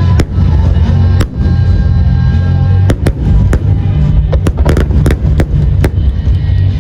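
Aerial fireworks bursting in a rapid series of sharp bangs, several close together between about three and six seconds in, over loud music with a heavy low beat.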